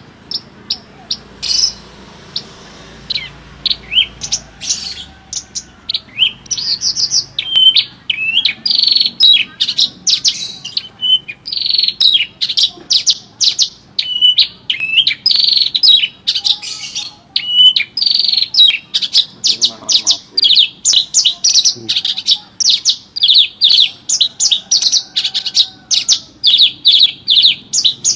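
Javan bush lark (branjangan) in full song: a fast, unbroken stream of high chirps, slurred notes and trills, a few scattered notes at first, then densely packed from about a quarter of the way in.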